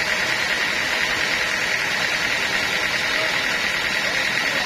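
Sawmill machinery running steadily: a constant mechanical noise with a continuous high-pitched tone.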